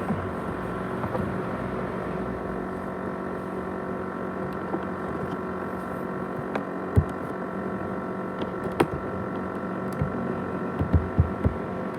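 ASUS X543UA laptop with its 500GB hard drive running: a steady whirring hum with several sharp clicks partway through and a cluster of knocks near the end, the rattling, jet-engine-like noise the drive is reported for.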